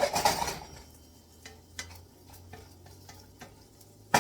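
Kitchen handling sounds: a short hissing scrape at the start, then scattered light taps and clicks over a faint low hum, and a quick clatter of sharp knocks at the very end.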